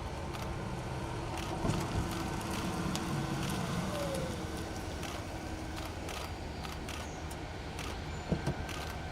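Steady low engine rumble with a few sharp clicks near the end.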